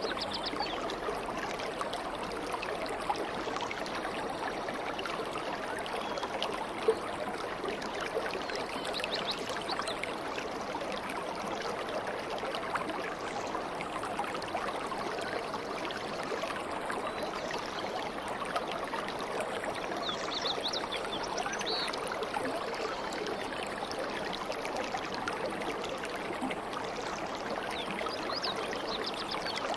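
Steady flowing water of a murmuring stream, with a few faint, brief bird chirps now and then.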